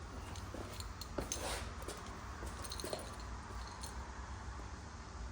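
Faint, scattered clicks and short scrapes of small metal parts being handled during re-greasing, over a steady low hum.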